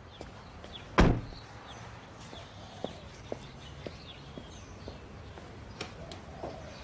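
A car door shuts with a single loud thump about a second in, followed by faint footsteps at an even walking pace and birds chirping.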